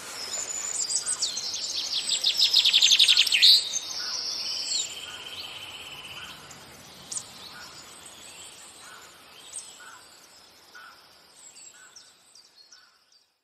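Birds singing and chirping: a fast, rapid trill about two to three seconds in is the loudest part, followed by scattered high chirps that fade out toward the end.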